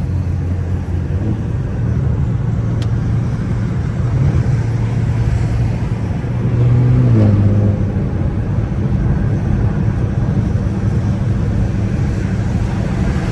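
2015 BMW 328i's turbocharged four-cylinder engine running under way, with the hiss of tyres on a wet road. About seven seconds in, the engine note climbs and then drops sharply.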